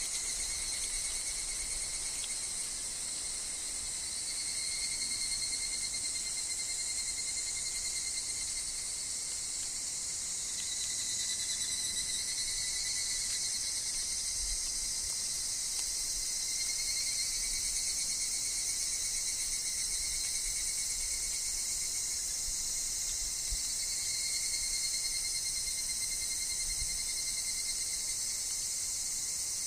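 Continuous insect chorus in woodland: higurashi cicadas calling in a dense high-pitched chorus, with a steady thin trill underneath. The sound holds steady, with only slow swells.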